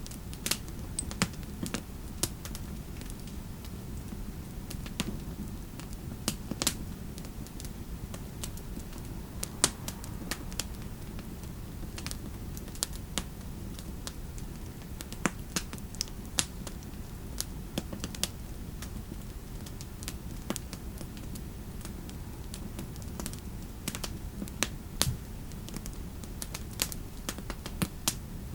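Typing on a computer keyboard: irregular keystroke clicks, some in quick runs and others spaced out with short pauses, over a steady low background rumble.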